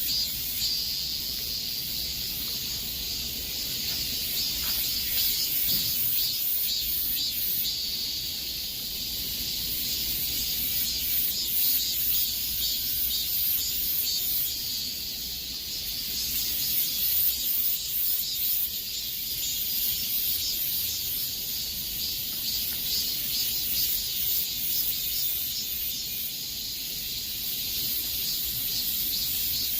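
A chorus of cicadas buzzing in summer heat: a steady high-pitched shrill that swells and eases slowly over several seconds.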